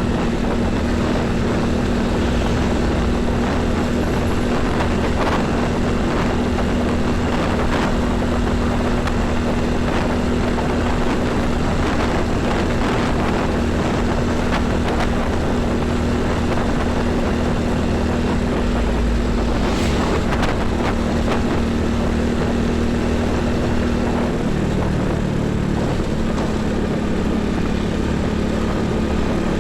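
Highway traffic dominated by heavy diesel trucks. A steady engine hum runs close by and drops to a lower pitch about three quarters of the way through, with a brief louder rush of a passing vehicle around two thirds in.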